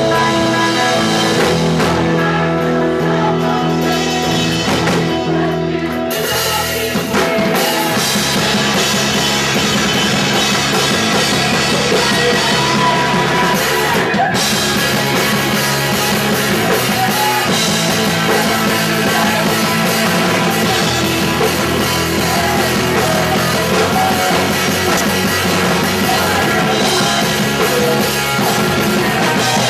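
Punk rock band playing live and loud: a guitar alone at first, then about six seconds in the drums and the rest of the band come in together and keep driving on.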